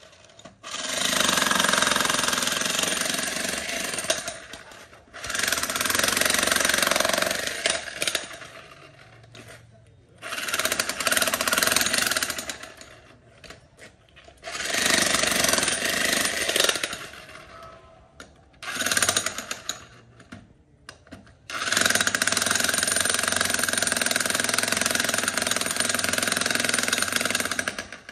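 Power tool running in repeated bursts of a few seconds, with short pauses between them, about six times.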